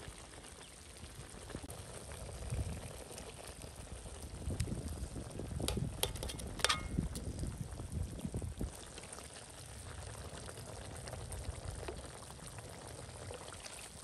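Diced pork bubbling and sizzling in a wok in its juices and seasoning sauce, with a few sharp clicks about six seconds in.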